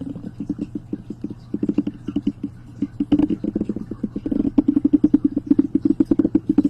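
Rapid ASMR tapping close to the microphone, about eight to ten soft taps a second in uneven runs, over a steady low hum.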